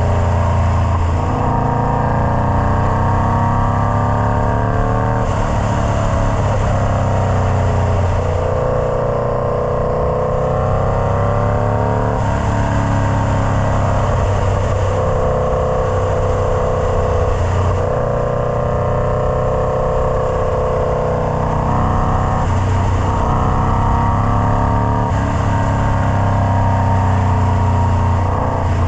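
Indian Scout Bobber's V-twin engine running through a Freedom Performance Combat 2-into-1 exhaust, its pitch falling and rising again every few seconds as the revs change.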